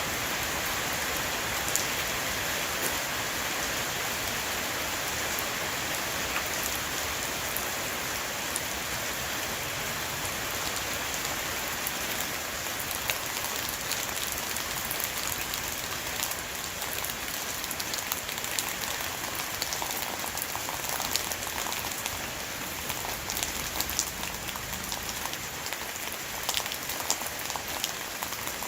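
Downpour falling on a roof: a steady hiss of rain with many sharp drop taps scattered through it.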